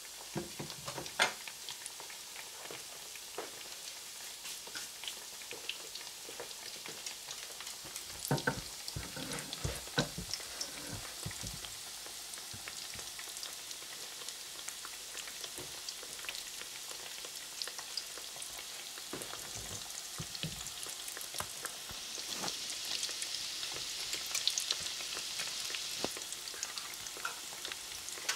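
Breaded zucchini slices shallow-frying in hot oil in a stainless steel pan: a steady sizzle full of small crackles and pops, growing louder near the end. A few sharp knocks sound about a second in and again around the middle.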